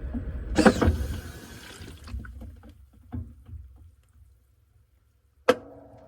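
Washing machine mid-wash: water sloshes loudly in the turning drum, then the drum stops and it goes almost silent. About five and a half seconds in, a sharp click is followed by a steady hum.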